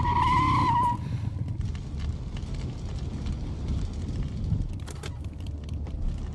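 Film sound effects after a truck crash: a high squeal that stops about a second in, then low rumbling with scattered crackles, like a burning wreck.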